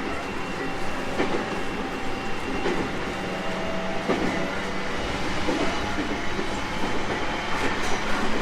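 JR East 701 series 1000-subseries electric train running at speed, heard from inside the car: steady wheel-on-rail rumble with a faint steady motor tone and a rail-joint click roughly every second and a half.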